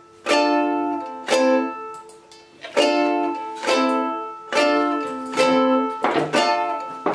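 Ukulele strummed slowly, one chord about every second, each chord ringing and fading before the next, with a couple of scratchier strums near the end.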